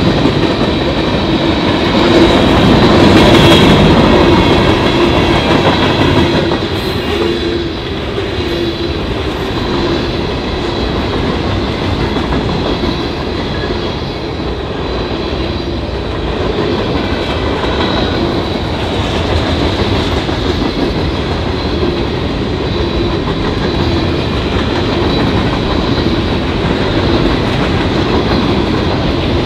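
Cars of a long mixed freight train rolling past: a steady rumble and rattle of steel wheels on the rails, with a thin high whine running over it. It is loudest a few seconds in.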